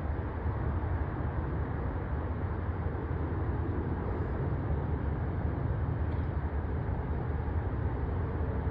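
Steady low rumbling noise with no bangs or impacts.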